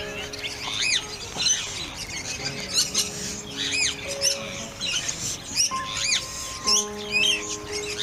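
Birds chirping in short, high notes that rise and fall, repeating roughly once a second, over background music with sustained chords.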